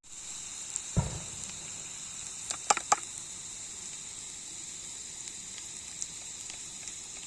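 Onion, ginger, garlic and chilli masala sizzling steadily in hot oil in a pan as it is sautéed. A low thump comes about a second in, and a few sharp clicks come near three seconds.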